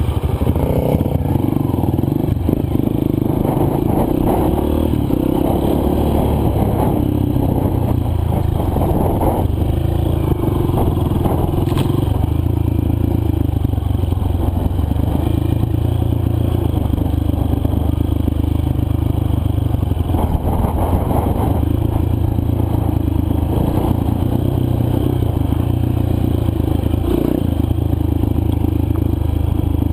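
Four-stroke single-cylinder dirt bike engine running under way on a trail ride, holding a fairly steady pitch without big revs or shifts.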